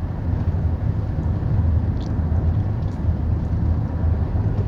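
Steady low engine rumble of a moving vehicle, heard from on board.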